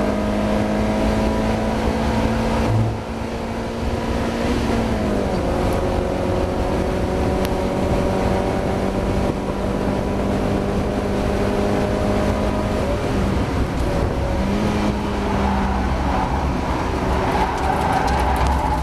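Mazda MX-5 race car's four-cylinder engine running hard and loud under racing load. Its pitch drops about five seconds in and climbs back up near fifteen seconds as the driver works the throttle and gears. The engine is racing with a misfire.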